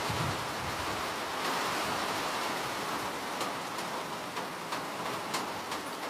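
Steady rain hiss with single drops ticking sharply now and then, more of them in the second half.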